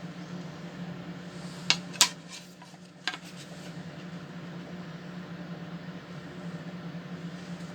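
Microwave oven running with a steady low hum, the homemade wooden turntable plate in place. Two sharp knocks about two seconds in and another a second later.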